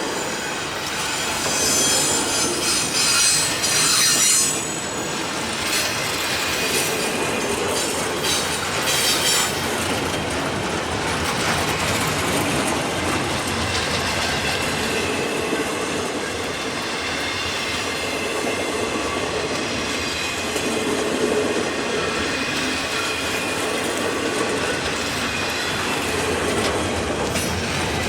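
A long freight train rolling past, the steady rumble of its wheels on the rails broken by shrill wheel squeal and clickety-clack over rail joints.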